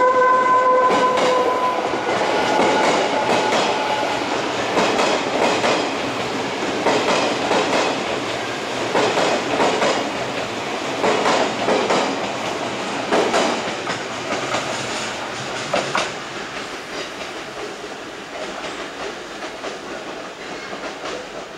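Odakyu 60000 series MSE Romancecar electric train pulling out, its wheels clattering in irregular bunches over rail joints and points, with some wheel squeal on the curve, and slowly fading as it draws away. A steady high tone dies away in the first few seconds.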